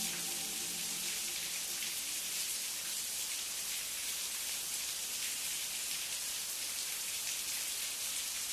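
Steady rain falling, an even hiss of many fine drops with no change in strength.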